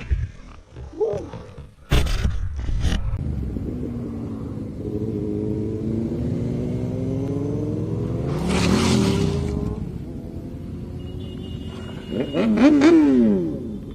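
Road vehicle engines running and passing, one rising then falling in pitch as it goes by about two-thirds of the way through, and a quick rev up and down near the end. A few sharp knocks come in the first three seconds.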